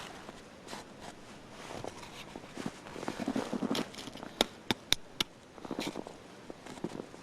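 Dry branches being snapped by hand, with crunching between the breaks and a quick run of sharp snaps about four to five seconds in.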